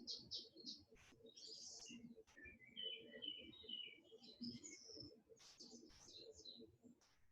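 Faint birdsong: scattered high chirps and a quick run of repeated notes about three seconds in.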